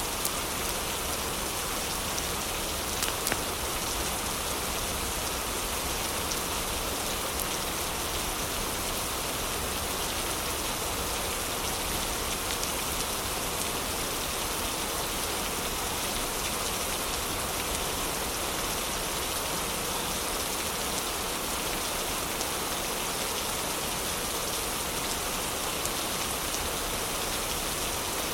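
Heavy rain falling steadily, an even hiss with no let-up, and a couple of sharp ticks about three seconds in.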